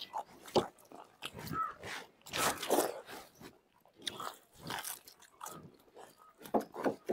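People biting and chewing gupchup (pani puri) and dahi bara, with irregular crunches as the crisp puri shells break.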